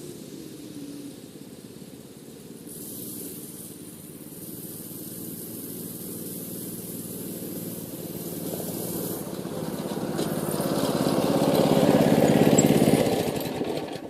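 Mini bike's 212cc Predator single-cylinder four-stroke engine running. It gets louder over about ten seconds, is loudest near the end, then drops off sharply.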